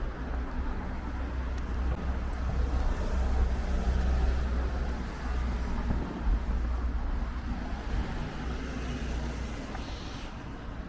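Road traffic: a vehicle passing close by, its low rumble swelling to its loudest about four seconds in and then easing.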